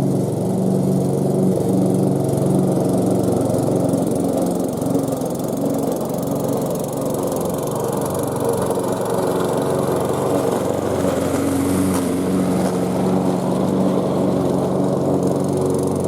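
Ferrex 46cm petrol lawn mower's Briggs & Stratton engine running steadily, its note wavering for a few seconds in the middle.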